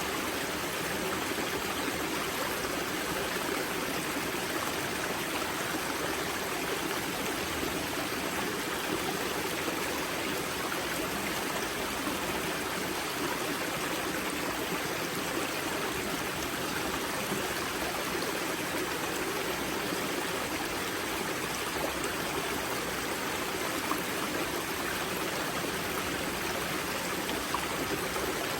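Water of a spring-fed river rushing and splashing steadily at its wellhead.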